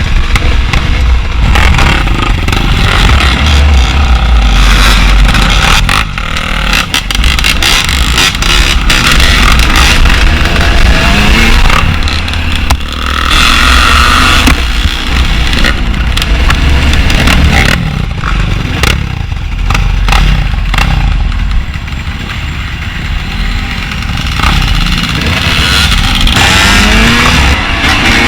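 Dirt bike engine running and revving while riding over rough ground, with a heavy low rumble and many knocks and rattles throughout. Near the end the revs climb steeply.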